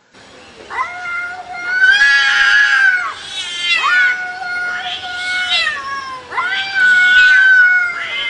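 Domestic cat yowling: three long, drawn-out calls, each held at an even pitch for about two seconds before breaking off.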